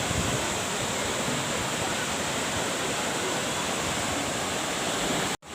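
Waterfall rushing steadily, an even wash of falling water that cuts out abruptly for a moment near the end.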